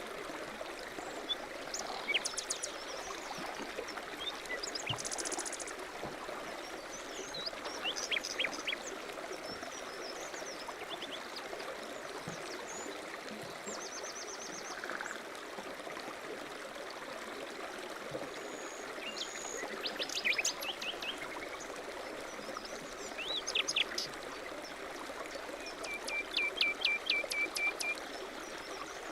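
A stream running steadily, with several small birds chirping and calling over it at intervals; near the end one bird gives a quick series of about eight short, rising notes.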